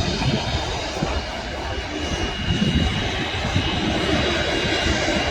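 Jet airliner's engines running, a steady loud noise with a faint high whine over it.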